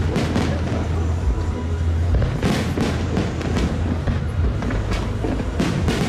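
Fireworks bursting in quick clusters near the start, about two and a half seconds in, and again near the end, over a steady low rumble.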